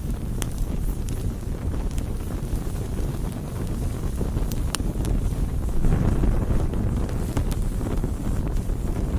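Wood campfire burning: a steady low rushing of flames with scattered sharp crackles and pops, swelling briefly about six seconds in.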